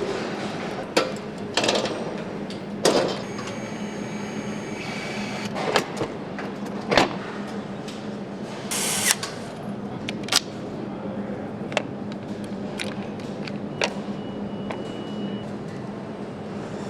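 Factory-floor ambience on a motorcycle assembly line: a steady hum with scattered clicks and clanks, and a short hiss about nine seconds in.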